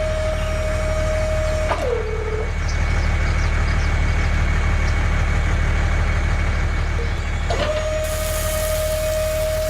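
Small electric motor of a miniature RC tractor running with a steady whine over a low hum. The whine dips in pitch about two seconds in, drops out, and comes back near the end.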